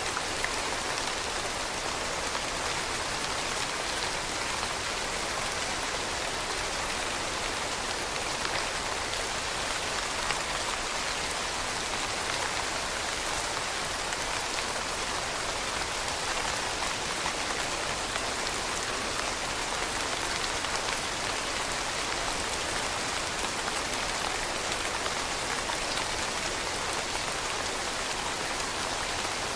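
Steady rain falling on leaves: an even hiss of many small drops pattering, with no breaks or changes.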